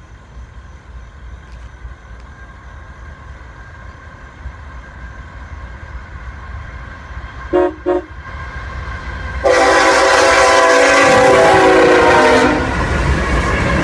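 An approaching freight train rumbles closer, and a car horn gives two short toots about seven and a half seconds in. About two seconds later the lead locomotive answers with one long, loud blast of its Nathan K5HLL five-chime air horn, lasting about three seconds, then the train runs past at speed with the rushing noise of wheels on rail.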